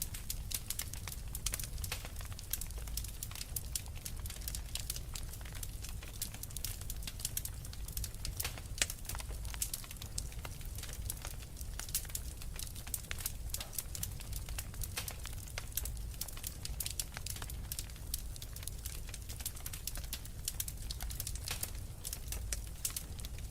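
Wood fire in a fireplace crackling: dense, irregular sharp pops and snaps from burning logs over a low, steady rumble of flame.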